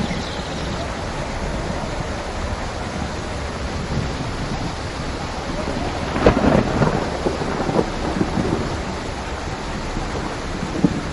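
Steady heavy rain, with a sharp clap of thunder about six seconds in that crackles and rumbles away over the next couple of seconds.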